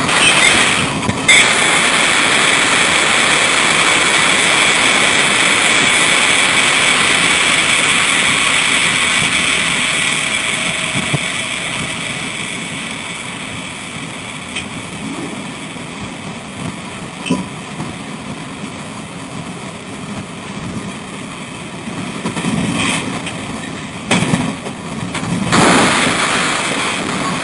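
Train running by with a loud steady rolling noise that fades slowly over the first fifteen seconds, then grows louder again with uneven bumps near the end.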